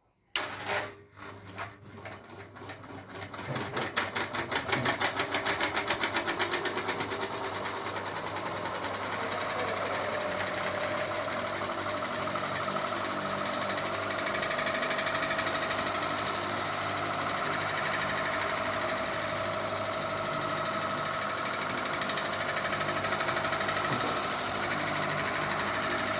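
Ceiling fan switched on with a sharp click and spinning up: a rhythmic clatter that quickens and grows louder over the first several seconds, then runs at a steady pace with a steady whine.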